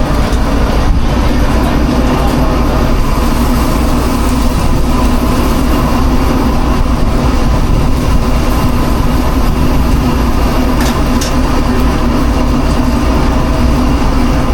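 Steady loud mechanical hum of food-truck kitchen machinery, a constant low drone with a faint steady whine above it, and two faint clicks about eleven seconds in.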